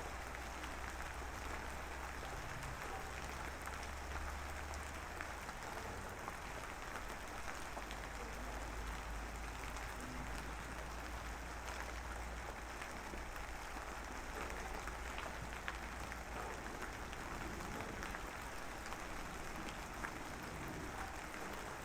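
Steady rain falling, an even hiss of drops with scattered small ticks.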